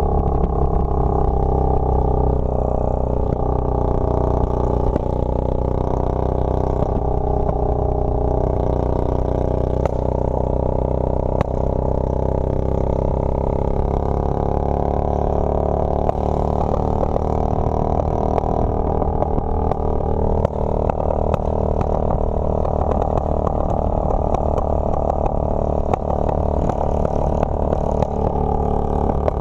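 Motorcycle engine running at a steady pace while riding, holding much the same level throughout.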